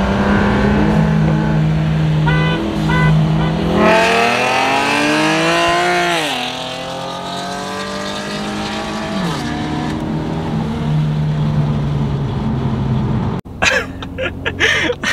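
Car engine pulling hard under full acceleration: its pitch climbs steeply for about two seconds, drops at a gear change, then holds steady under throttle. A few short high tones sound about two seconds in, and the sound cuts off sharply near the end.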